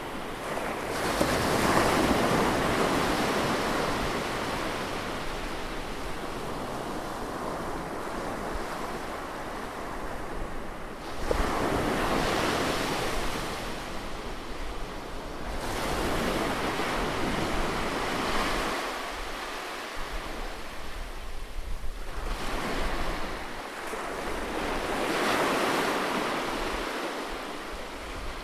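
Close-recorded seaside waves washing in and receding, each wave swelling into a hiss and fading, about five surges in all.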